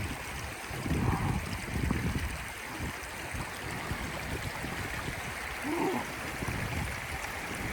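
Mountain creek water rushing and gurgling steadily, with a low fluctuating rumble underneath.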